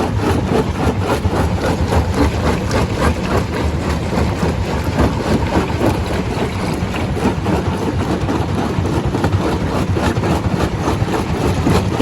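Stone crusher running under load: a steady low mechanical drone with a constant irregular clatter of rock.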